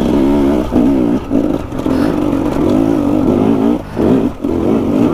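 KTM 250 EXC two-stroke enduro motorcycle engine on a steep rocky climb, the throttle opening and closing so the pitch wavers up and down. The engine note drops away briefly about a second and a half in and twice around four seconds in as the throttle is closed.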